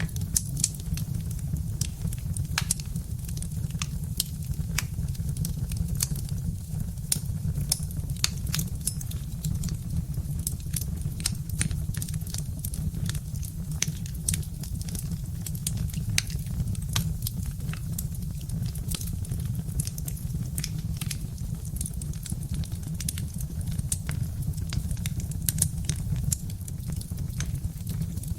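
Birch-wood fire crackling: frequent, irregular sharp pops and snaps over a steady low rumble.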